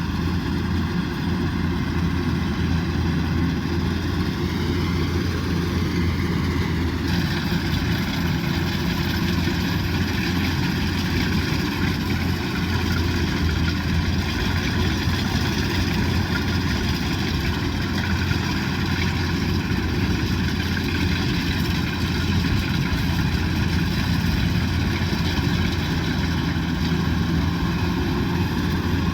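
Kubota DC108X combine harvester's diesel engine running steadily under load, with the machine's harvesting mechanism working. The pitch holds even throughout, with a slight change in the higher sounds about seven seconds in.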